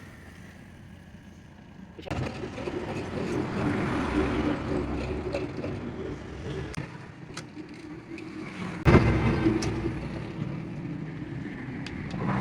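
A motor vehicle running, coming in suddenly about two seconds in and getting louder with a sharp jump near the end, with scattered clicks.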